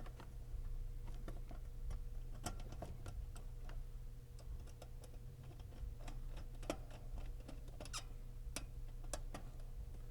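Irregular light clicks and snips of hand tools and wires as electrical wiring is shortened and tidied inside an air handler cabinet, over a steady low hum.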